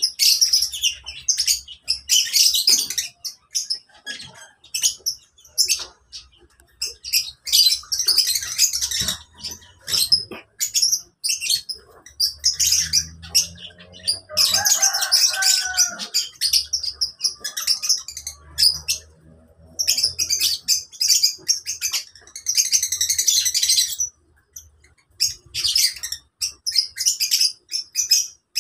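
A flock of lovebirds chattering: rapid, shrill, high-pitched chirps in bursts with short pauses, with a few lower gliding calls about halfway through.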